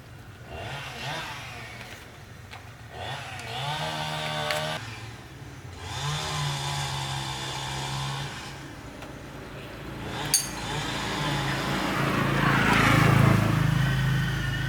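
Engine running and revved three times, each rev rising in pitch and holding for a couple of seconds; the last rev is the loudest. A sharp click comes about ten seconds in.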